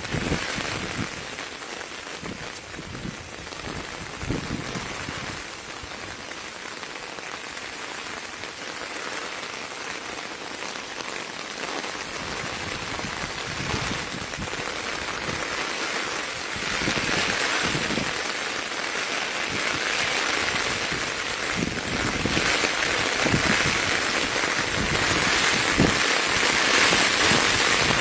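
Steady rain falling, with many close drops landing individually; the rain grows louder after about sixteen seconds and again a few seconds before the end.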